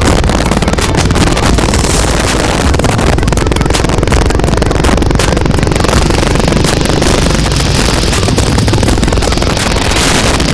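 Wind rushing over the microphone of a moving motorbike: a loud, steady rumble and hiss with no break, with the bike running underneath.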